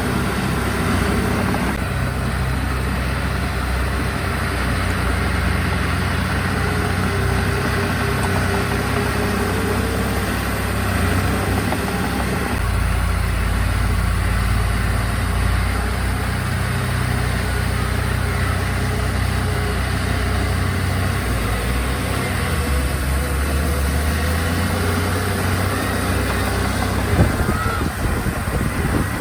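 Diesel engines of heavy earthmoving machines running steadily at work, the engine note shifting now and then as the load changes, with a brief knock near the end.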